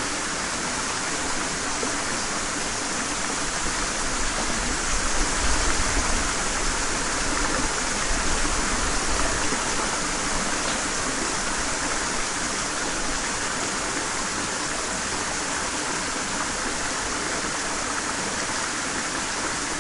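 Water of a stream running and splashing steadily, a little louder for a few seconds near the start.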